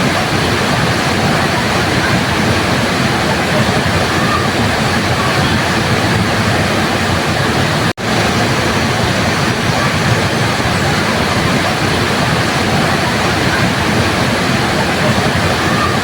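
Waterfall: a steady, even rush of falling water. It cuts out for an instant about halfway through.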